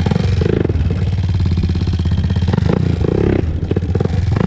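A 2001 Honda TRX400EX ATV's single-cylinder four-stroke engine running steadily while being ridden, its throttle rising and easing slightly.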